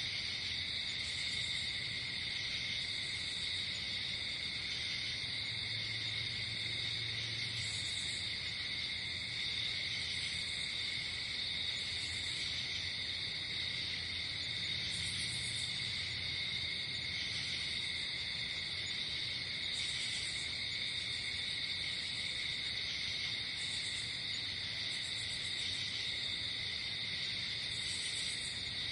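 Night insect chorus: crickets trilling in a steady, unbroken drone, with short higher-pitched chirps every few seconds.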